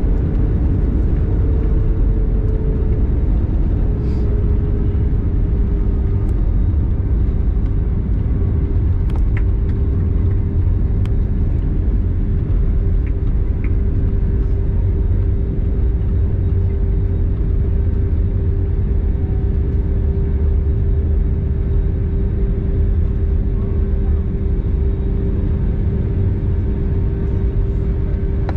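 Steady cabin noise inside an Airbus A320neo airliner: a deep, even rumble with a steady hum that dips slightly in pitch over the first few seconds, then holds.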